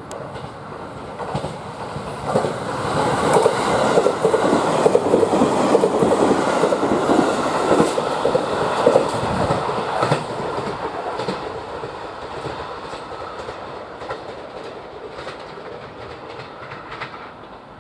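A JR East 701 series electric train running past close by, its wheels clacking over the rail joints. The sound swells to its loudest in the middle, then fades as the train moves away.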